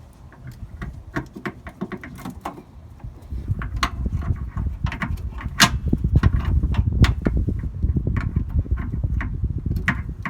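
Irregular clicks, taps and knocks of hands handling the new fuel filter and working it into its threaded port on the Onan generator. From about three seconds in, an uneven low rumble of handling noise runs beneath.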